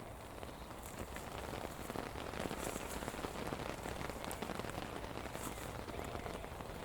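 Steady rain falling and pattering on surfaces, a dense stream of small drop hits.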